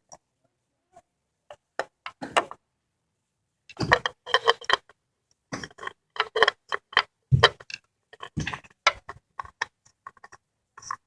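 Irregular clicking and scraping as a new oil filter is fitted and threaded on by hand: a few scattered clicks at first, then a busy run of clicks and rubs from about four seconds in.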